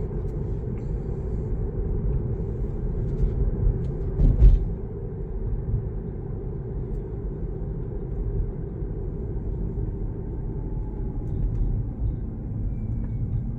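Low, steady road and tyre rumble inside a moving Tesla electric car's cabin, with no engine note; a single thump about four and a half seconds in, as from a bump in the road.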